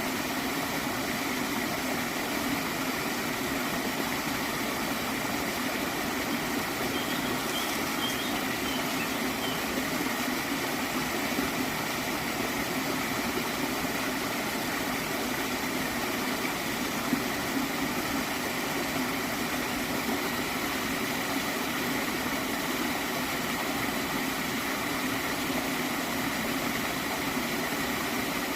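Small stream of water flowing and gurgling steadily, without a break.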